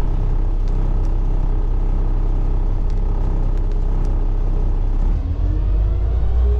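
Semi truck's diesel engine idling steadily with the PTO engaged, then rising in revs from about five seconds in as it is set to a high idle of about 1500 RPM to drive the walking-floor trailer's hydraulics.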